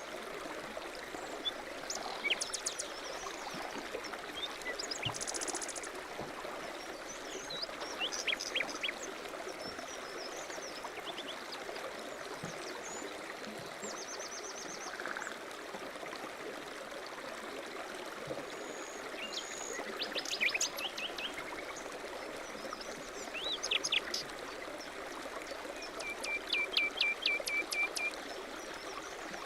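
A mountain stream running steadily, with small birds calling over it: scattered high chirps and short trills, the loudest a quick run of repeated notes near the end.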